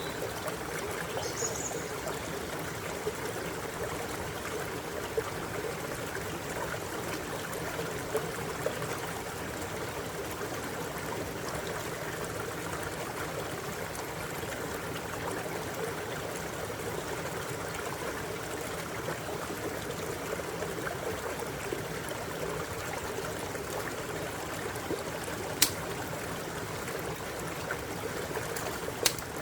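Stream water flowing and babbling steadily over stones. Two sharp clicks sound near the end.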